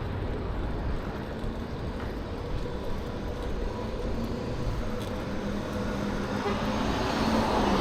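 Steady wind and road rumble while riding a bicycle on a city street, with motor traffic in the background.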